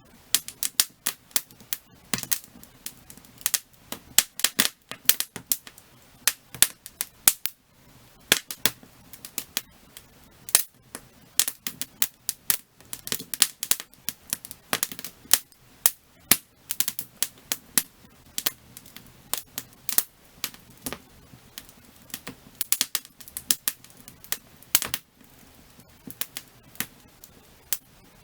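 Firewood burning in an open fire, crackling and popping in quick irregular snaps, some sharper and louder than others, over a faint low hiss of the flames.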